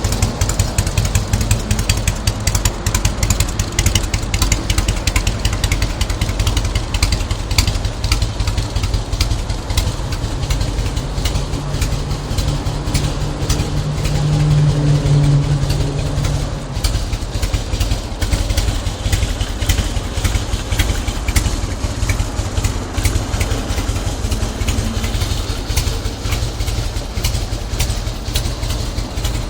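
Harley-Davidson FLSTC's air-cooled V-twin engine idling with a fast, steady pulse. Its note swells briefly about halfway through.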